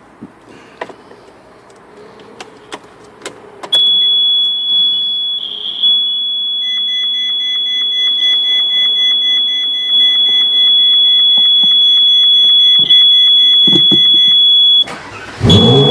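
Steady high-pitched electronic buzz from the centre console by the roof switch of a 2013 Ferrari 458 Spider. It comes in suddenly after a few clicks and cuts out for a moment near the end, when a louder low sound rising in pitch starts.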